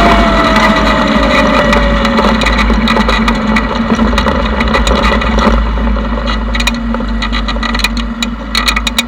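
Engine running, its revs falling over the first couple of seconds and then holding steady. A run of sharp clicks and rattles comes in over the second half.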